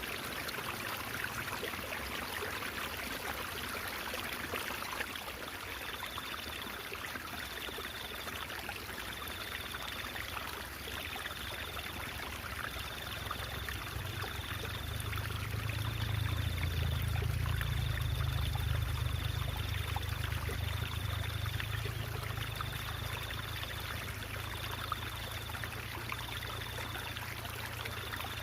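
Water trickling and babbling steadily in a stream, with a low rumble swelling in the middle.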